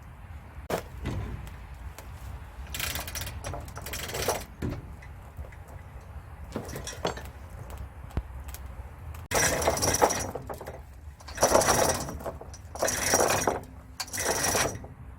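Metal tool work on a truck's rear differential: about six short rattling, clinking bursts of a few tenths of a second to a second each, the last four, from about nine seconds in, the loudest.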